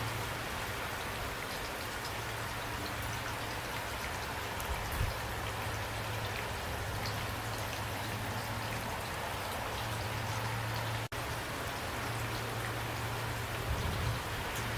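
Steady rain falling, with scattered close drop ticks over an even hiss and a steady low rumble underneath. The sound cuts out for an instant about eleven seconds in.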